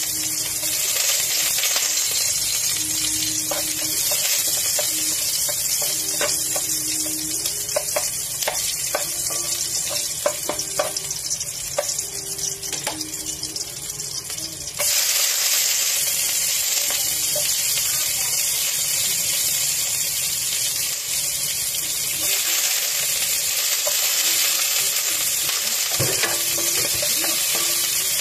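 Garlic cloves sizzling in hot oil in a wok, a steady frying hiss with scattered light clicks; about halfway through, the sizzle suddenly gets louder. Near the end, sliced onion is stirred in the pan with a wooden spatula.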